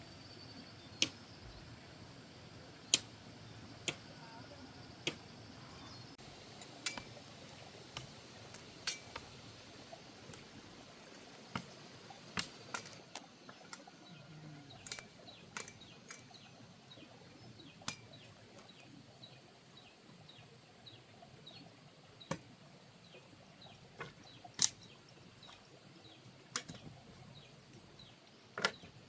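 Sharp taps or knocks at irregular intervals, roughly one every second or two, over a low steady background hiss.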